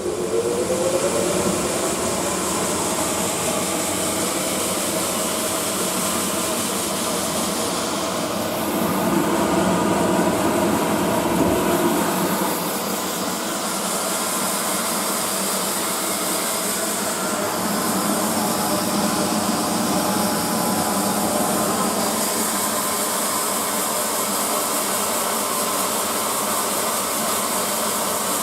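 KOEI dewatering machine running steadily, a whirring motor hum with a strong airy rush over it, a little louder for a few seconds around ten seconds in.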